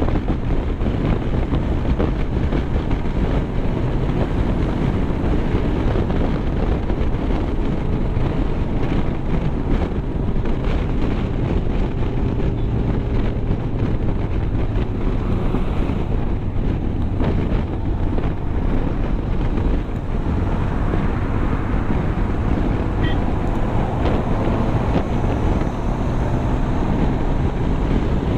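Wind rushing over the microphone, along with road and engine noise from a vehicle moving at speed, steady throughout.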